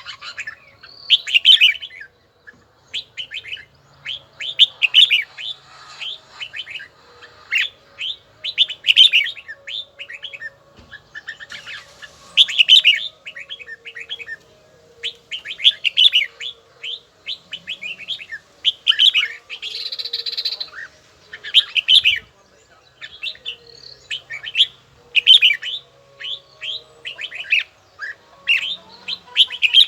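Red-whiskered bulbul singing: short, quick, chirpy phrases repeated every second or two.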